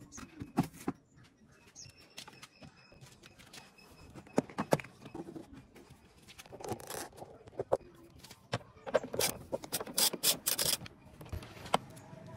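Hand tools clinking and knocking on metal in irregular sharp clicks, with a dense cluster of clinks near the end.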